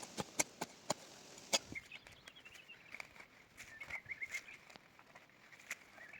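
A run of sharp clicks and knocks for the first two seconds or so, then a bird singing a wavering, trilled song from about two seconds in.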